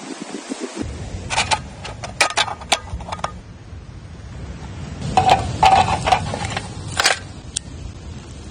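Two bouts of sharp clicks and knocks, some with a brief ringing note, like hard objects being struck or handled.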